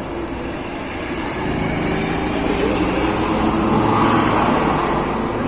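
Road traffic noise, with a vehicle passing that swells to its loudest about four seconds in and then eases off.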